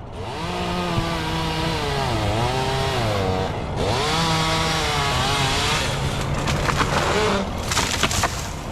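Chainsaw cutting into very hard Australian pine wood, the engine pitch dipping and recovering several times as it loads in the cut. A few sharp cracks or knocks come near the end.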